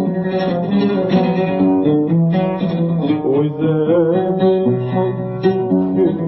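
Arabic song music led by a plucked oud playing a melodic line with quick note changes.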